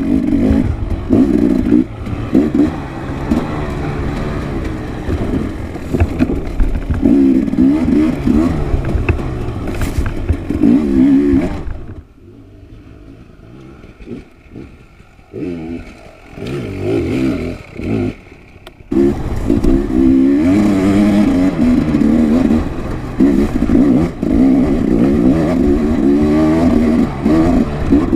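Dirt bike engine being ridden hard, its revs rising and falling continually with clattering from the bike. About twelve seconds in it drops to a low level for several seconds with a few short blips of throttle, then picks back up and revs on.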